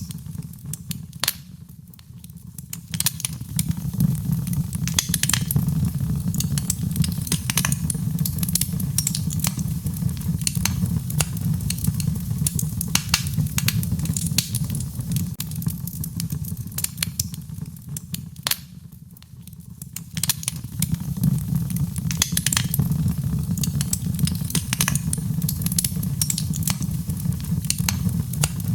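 Wood fire in a fireplace crackling, with many sharp pops and snaps over a steady low rumble of the flames. Twice the crackling thins out and quietens briefly, then picks up again.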